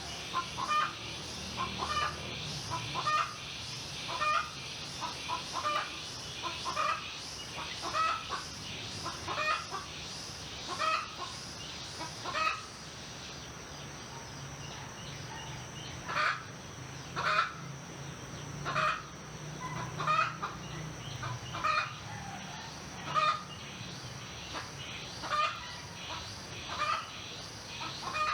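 Chickens clucking in short repeated calls, about one a second, with a brief lull about halfway through, over a steady high-pitched insect drone.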